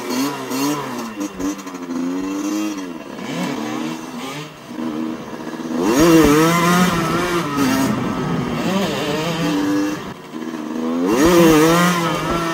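Motorcycle engine under way, its pitch rising as it accelerates and dropping back between pulls. It revs up strongly at the start, again about six seconds in, and again near the end.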